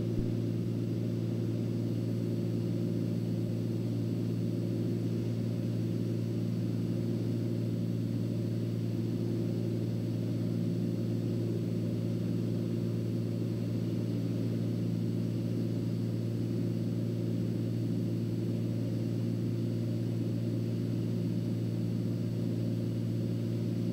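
Turbocharged Cessna 206's 310-horsepower piston engine and propeller droning steadily in level cruise, a low, even hum with several steady tones and no change in pitch.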